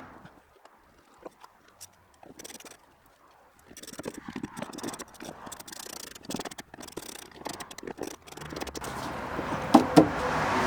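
Irregular clicks and scrapes of hand work on a car door's parts and fasteners, growing busier partway through. Near the end a louder rushing noise comes in, with two sharp knocks.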